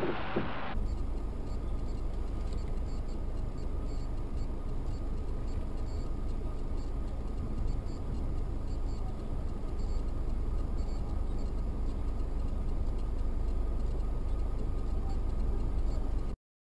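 Steady road and engine rumble of a car driving, heavy in the low end with a faint steady tone, cutting off abruptly near the end.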